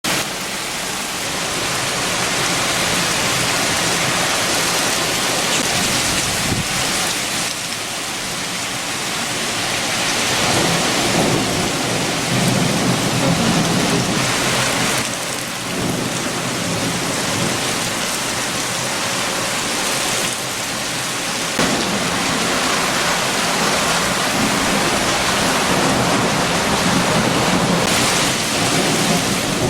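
Heavy, steady rain driven by strong wind, with deeper rumbling swells a few times.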